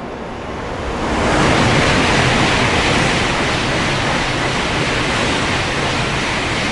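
A Shinkansen train passing through the station at speed: a loud rushing noise of air and rails that builds about a second in, holds, and fades near the end.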